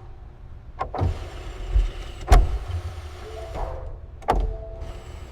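Low car rumble broken by three sharp clunks, about a second and a half to two seconds apart, with a faint whine in between.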